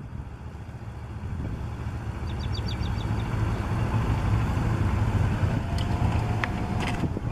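Kawasaki Ninja 650R motorcycle's parallel-twin engine running at low revs, getting steadily louder over the first few seconds.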